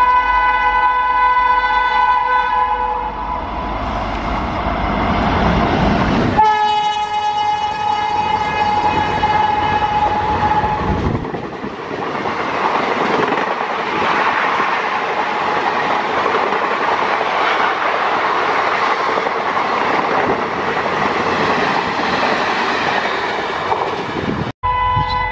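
Electric locomotive horn blowing long and steady as an express train approaches, then, after a cut, a second, slightly higher-pitched horn blast lasting a few seconds. From about eleven seconds in, the coaches rush past at speed with a loud, even clatter until the sound cuts off suddenly near the end.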